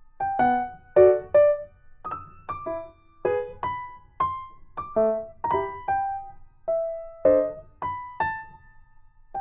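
Background piano music: a light melody of single notes, each struck and fading, at about two to three notes a second.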